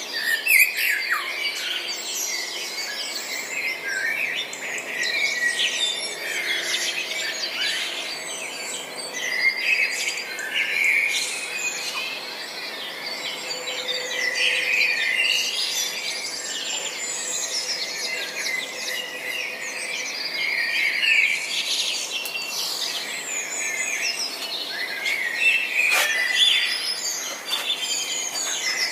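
Several songbirds chirping and trilling at once in a continuous dawn-chorus-like mix of short, high calls.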